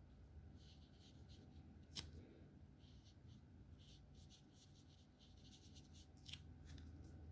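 Alcohol marker tips scratching across paper in short, repeated strokes, faint. A sharp click comes about two seconds in and another near the end.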